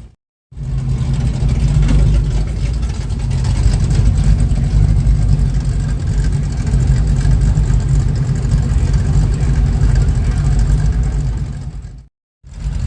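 Vehicle engine running at a steady idle, a loud low rumble. It cuts out abruptly for a moment at the start and again near the end.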